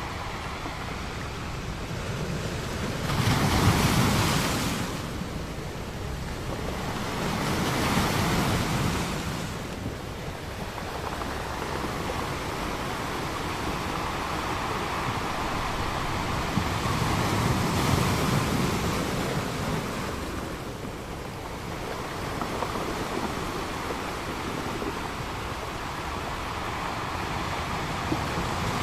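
Ocean waves breaking on a beach: a steady rush of surf with swells that build and fall away, the loudest crashes about four and eight seconds in and a softer, longer one near the middle.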